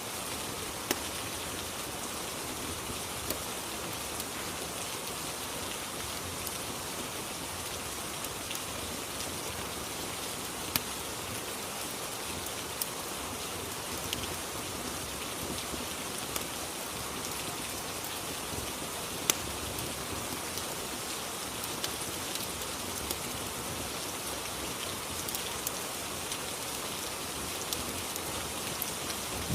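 Steady rain ambience, an even hiss of falling rain with a few sharp clicks or pops standing out now and then.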